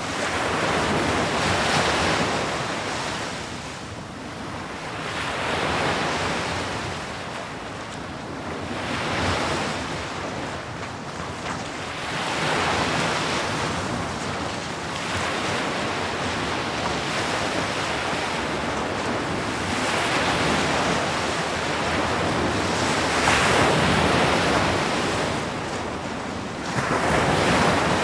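Sea waves breaking on the shore, the surf swelling and falling back in a slow rhythm every few seconds.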